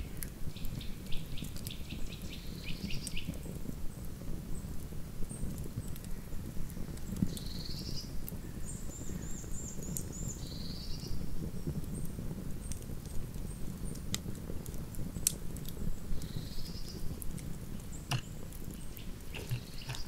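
Wood campfire burning with a steady crackle and scattered sharp pops, while small birds give short chirps and trills several times.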